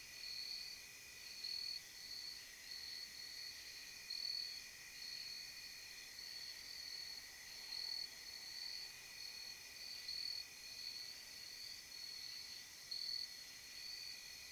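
Night insect chorus, mostly crickets, chirping in pulses about once a second over a steady high-pitched drone.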